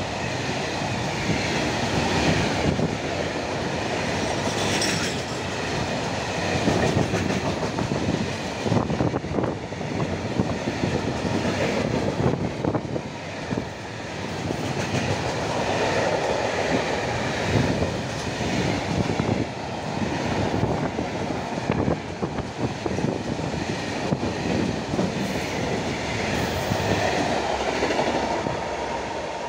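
Freight train of grain hopper wagons rolling past, a steady run of wheel clatter and knocks on the rails.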